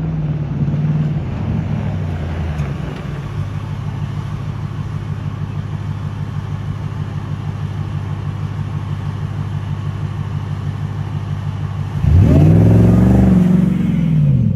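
Truck engine idling with a steady, even pulsing beat, then revved once near the end, its pitch rising and falling back.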